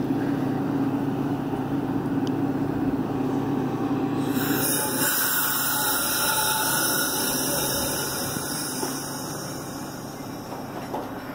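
Metra bilevel commuter train rolling slowly along the platform, a steady mix of running noise and low hum. The sound fades over the last few seconds as the train comes to a stop.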